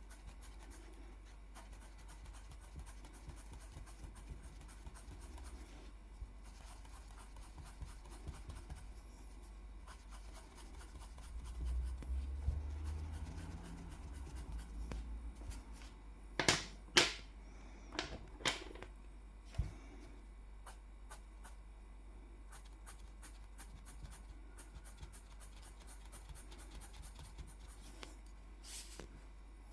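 Quiet, quick scratching strokes of a drawing tool colouring on paper, repeated throughout. A little past halfway there are four sharp clicks.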